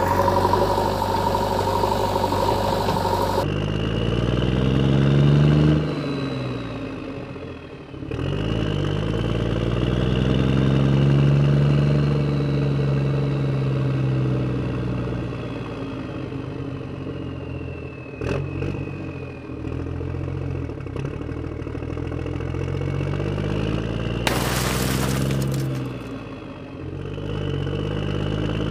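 A vehicle engine revving up and down in several long swells, its pitch rising and falling, with abrupt breaks between stretches. A short hissing rush comes about three-quarters of the way through.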